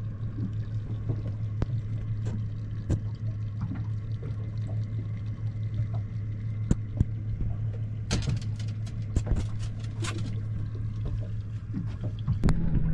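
Water sloshing and splashing over a steady low motor hum, with scattered knocks and a few louder splashy bursts about eight to ten seconds in.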